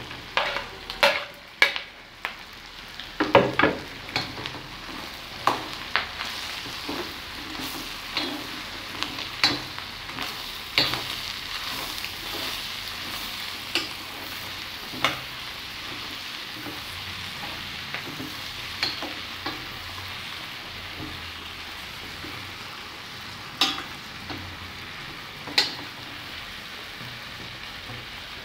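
Discada of beef and pork sizzling in an enamel pot as chopped tomatoes are tipped in and stirred with an enamel spoon. The spoon knocks and scrapes against the pot, thickly over the first few seconds, then every second or so, then only twice more near the end, over a steady frying hiss.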